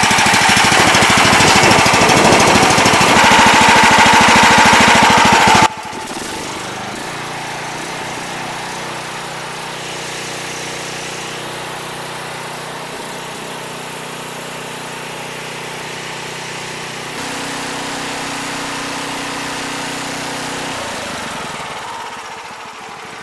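Gas-engine pressure washer running loudly with a dense, rapid mechanical rattle while its pump fails to prime from the buffer tank. About six seconds in the sound drops abruptly to a quieter, steady hum with a few low tones, which fades away near the end.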